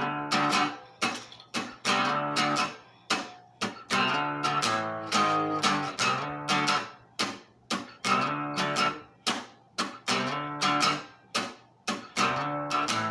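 Acoustic guitar strummed in a steady rhythm, each chord struck sharply and ringing out before the next: an instrumental passage of a folk song.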